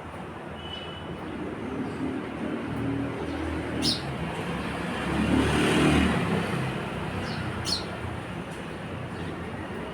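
A road vehicle passing, its rumble swelling to a peak about halfway through and then fading, with two short sparrow chirps, one a little before and one a little after the loudest point.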